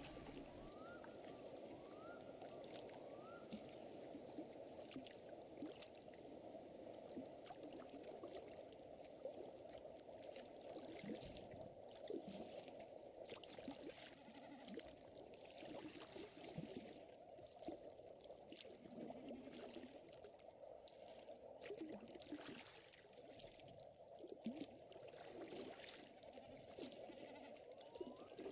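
Faint nature ambience: a steady wash of water with a campfire crackling in scattered pops. A few short rising chirps come in the first few seconds.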